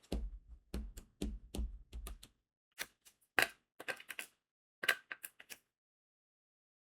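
A diamond painting pen pressing crystal drills onto the adhesive canvas in a quick run of small clicking taps. In the first two seconds the taps come with a dull thud, and a looser run of sharper clicks follows up to about five and a half seconds in.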